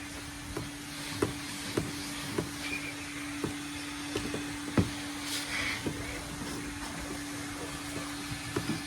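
A vacuum cleaner running steadily, a constant hum with a hiss over it, with scattered knocks and clicks as the nozzle works over the truck's interior; the loudest knock comes about five seconds in.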